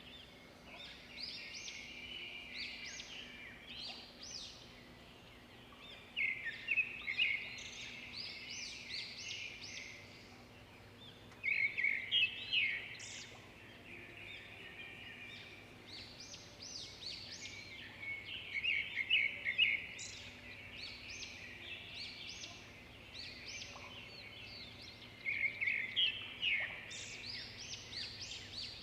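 Small songbirds chirping and twittering in quick trills, with louder bursts of song every six or seven seconds and softer chirping between them. A faint steady low hum runs underneath.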